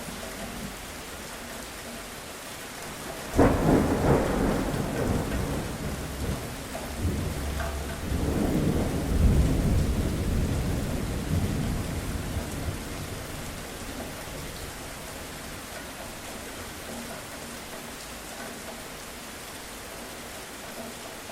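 Steady rain falling, with a thunderclap that cracks in suddenly a few seconds in and rumbles on, swelling again before fading back into the rain.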